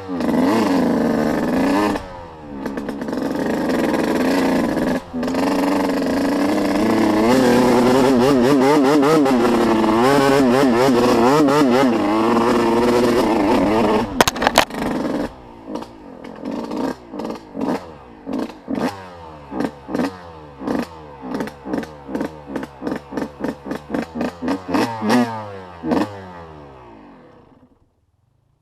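Off-road vehicle engine running under throttle, its pitch rising and falling, then about fifteen seconds in a string of quick throttle blips, about two a second, before the sound dies away near the end.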